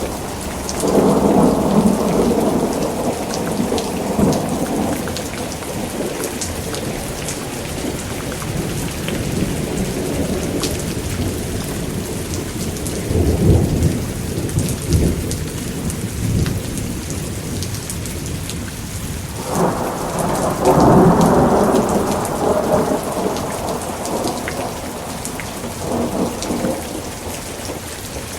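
Thunderstorm: steady heavy rain hissing and pattering, with several rolls of thunder rumbling over it. One roll comes about a second in, another about halfway, a louder one with a sudden start about two-thirds through, and a weaker one near the end.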